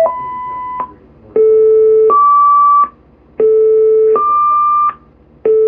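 Fire dispatch two-tone sequential paging tones over a scanner: a lower steady tone then a higher one, each about three-quarters of a second, repeated as several pairs in a row to alert the fire companies before a house fire is dispatched.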